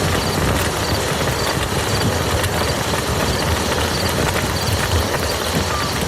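Steady rain falling on a muddy field, a dense even patter of drops.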